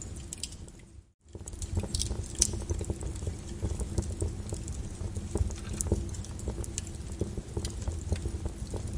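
Flowing lava crackling and popping with many small irregular snaps over a low rumble. The sound drops out briefly about a second in, then comes back with denser, louder pops.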